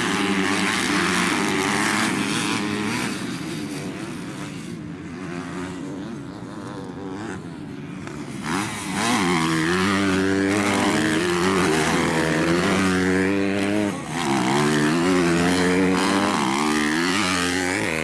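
250 cc racing motorcycles revving hard on a grasstrack, their engine pitch climbing and dropping again and again through the gear changes. The engines fade for a few seconds midway, then come back louder from about nine seconds in as bikes pass close.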